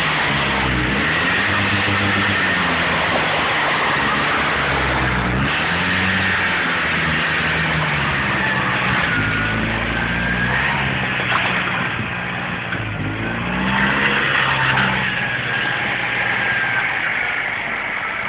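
Fiat Cinquecento 700's small two-cylinder engine revving up and down over and over as the car is driven hard, with a high wavering tyre squeal over it.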